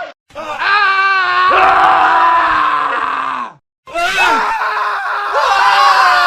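Men screaming, cut together as a montage: a scream starts just after a short silent gap, another takes over about a second and a half in and trails off, and after a brief silence near the middle a further scream begins, each a long held cry with wavering pitch.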